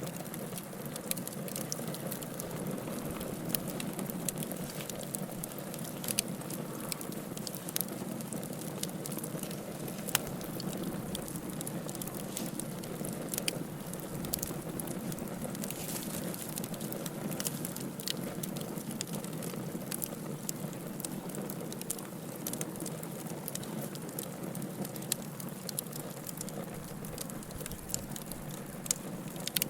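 Wood fire burning in a fireplace, a steady low rush of flames with frequent sharp crackles and pops scattered irregularly throughout.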